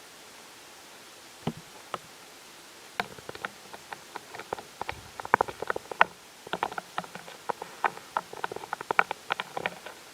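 Irregular sharp clicks and taps, a few scattered at first, then a dense uneven run from about three seconds in, over a faint steady hiss.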